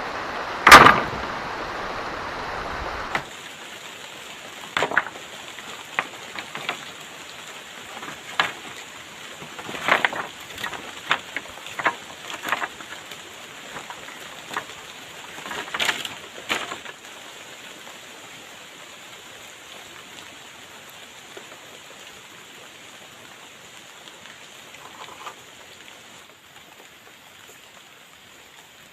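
Steady rain falling, with a run of irregular sharp knocks and snaps of wood being handled in the first half, then only the rain.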